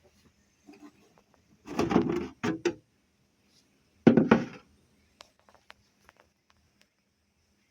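Handling thuds: two close knocks about two seconds in and a louder one about four seconds in, followed by scattered light clicks.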